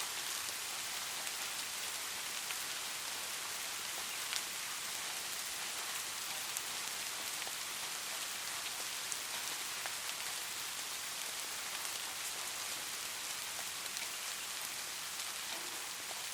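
Light rain falling steadily: an even hiss with scattered individual drops ticking, one a little sharper about four seconds in.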